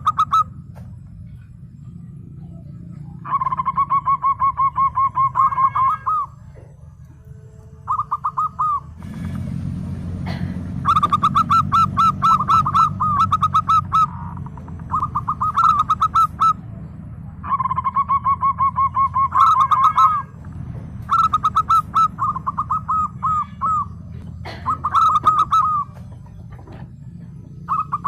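Zebra dove (perkutut) singing: repeated phrases of rapid, staccato cooing notes, each phrase a second or two long with short pauses between. A steady low hum runs underneath, and a brief hiss comes about a third of the way in.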